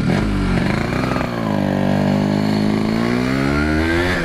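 Yamaha RX-King 135 cc two-stroke motorcycle with an aftermarket RBK exhaust, ridden under acceleration. The engine pitch dips about a second in, then climbs steadily through the gear and drops sharply near the end, as at a gear change.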